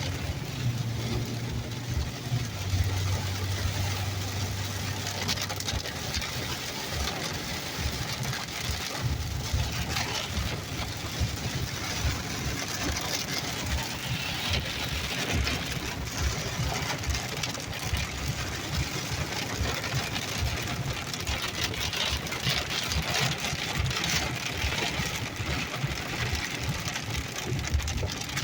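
Heavy rain pattering hard on a moving car, heard inside the cabin, with the car's engine and road noise running low underneath.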